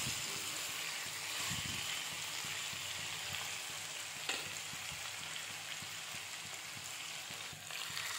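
Sliced bitter gourd, potato and onion sizzling steadily in hot oil in a non-stick kadhai over a high flame, the moisture in the bitter gourd cooking off, with a wooden spoon stirring at the start and a single light knock about four seconds in.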